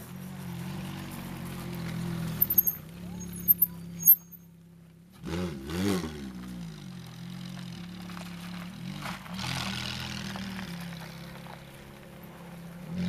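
Ferrari F430 Spider's 4.3-litre V8 with a Capristo exhaust idling, blipped once in a quick rev that rises and falls about five seconds in, and rising again at the very end. A few sharp clicks come around two to four seconds in.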